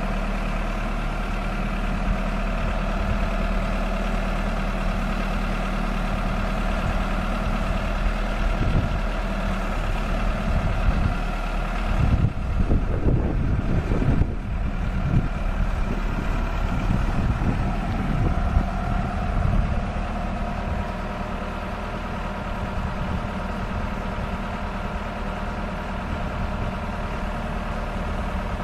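2001 Case 580 Super M backhoe loader's diesel engine running steadily, with a rougher, louder stretch about halfway through.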